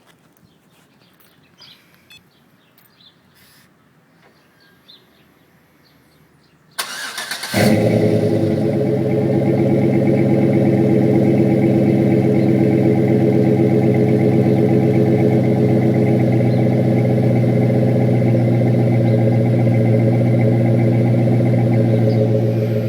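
Chevy Tahoe V8 with a Flowmaster exhaust cranking about seven seconds in and catching within a second, then idling steadily and loudly with a deep exhaust note. Before the start there are only a few faint clicks.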